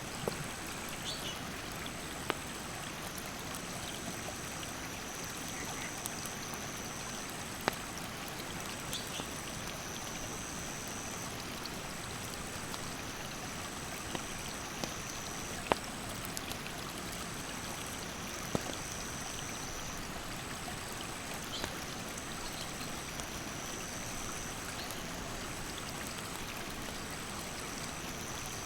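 Mountain stream rushing steadily, with a few sharp crackles and pops from a wood campfire. A high insect call repeats in short pulses about once a second.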